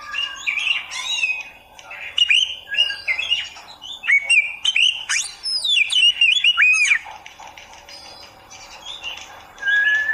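Oriental magpie-robin (kacer) singing a fast, varied string of whistles and sharp chirps, dense for about seven seconds, then sparser, with one held level whistle near the end.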